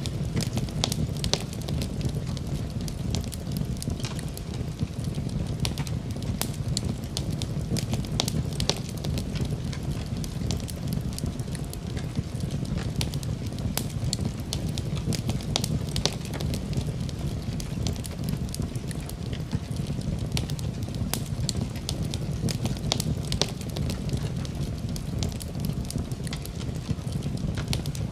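Wood fire burning in a fireplace: a steady low rumble of the flames with constant irregular crackles and pops.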